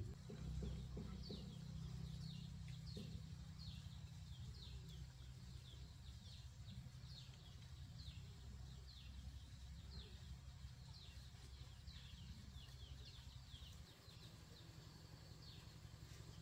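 Faint birdsong: short, high, downward-sliding chirps repeated one or two times a second, over a low steady rumble.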